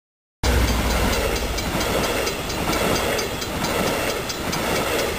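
Double-deck passenger train passing a level crossing close by, its wheels clattering on the rails with a swell about once a second. The sound starts abruptly about half a second in.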